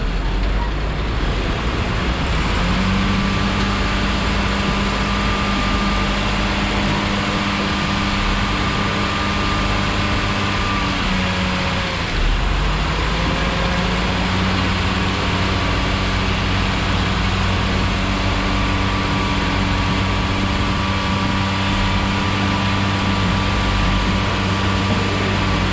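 A heavy vehicle's engine running with a steady hum over busy street traffic noise. The hum breaks off briefly about halfway through, then carries on.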